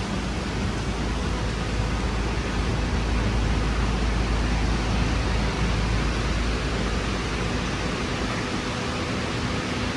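Heavy rain pouring down, an even, steady hiss.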